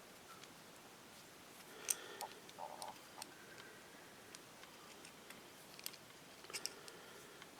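Scattered light clicks and taps of small parts and tools being handled during carburetor disassembly, a sharp click about two seconds in and another short cluster near the end.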